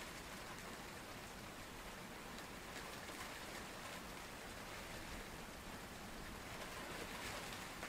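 Steady rain falling on a pond: an even hiss that holds level throughout.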